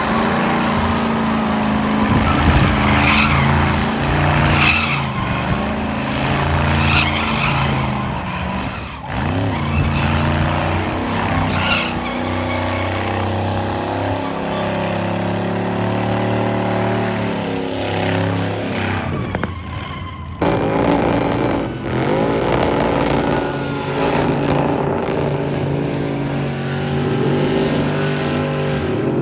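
Truck engine revving hard during a burnout, with tires squealing and skidding; the engine pitch rises and falls repeatedly.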